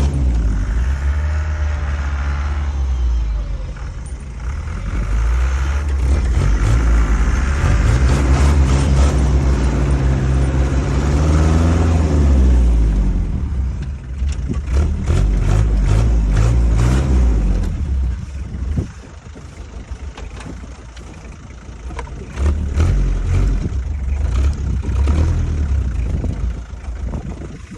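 Land Rover Defender 110's engine running while driven, revving up and easing off several times with the pitch rising and falling. It drops back to a lower, quieter note for a few seconds past the middle, then picks up again. Frequent short knocks and rattles sound over it.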